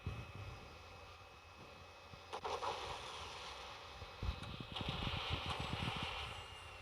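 Distant fighter jet noise, faint with a steady high whine, swelling twice, with wind rumbling on the microphone.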